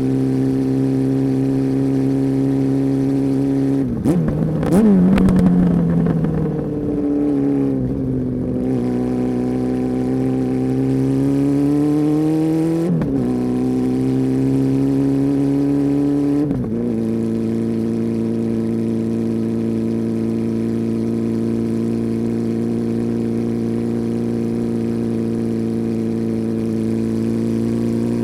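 Honda CB400 Super Four's inline-four engine running through its deep-toned exhaust. A steady note is broken by a brief loud rev about four seconds in, the pitch wanders and shifts abruptly twice more, then it settles back to a steady idle for the second half.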